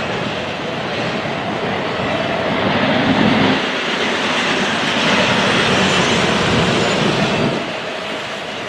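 Freight train rolling past, steel wheels running on the rails, growing louder for a few seconds and easing off a little near the end.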